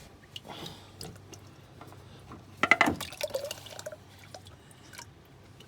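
Engine oil dripping and draining, with a short clatter of clicks about halfway through.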